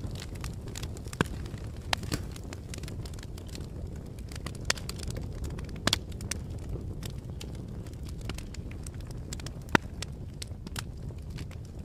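Fire crackling: a steady low rumble of flames under scattered sharp pops and snaps, a few of them much louder.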